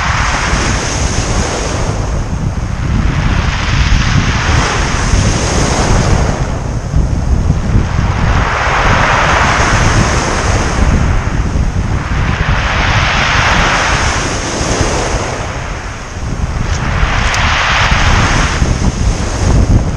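Sea waves breaking and washing up the beach in swells about every four seconds, under a constant low rumble of strong wind buffeting the microphone.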